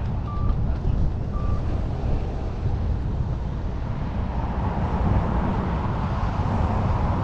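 Steady low rumble of wind and engine noise while riding, with two short beeps from a helmet Bluetooth intercom about a second apart near the start, the kind it gives while trying to pair.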